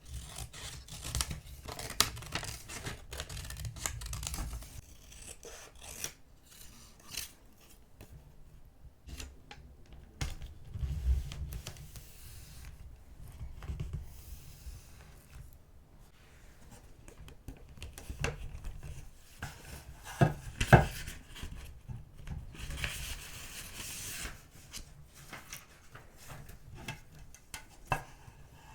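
Paper crafting sounds: scissors snipping paper, and paper sheets being handled, rubbed and torn. There are irregular small clicks and taps throughout, with the sharpest tap about twenty seconds in.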